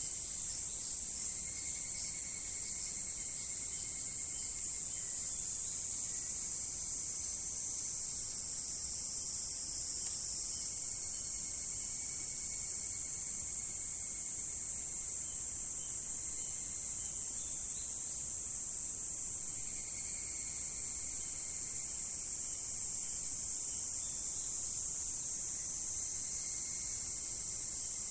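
A chorus of insects trilling, steady and high-pitched, with fainter drawn-out tones coming and going underneath.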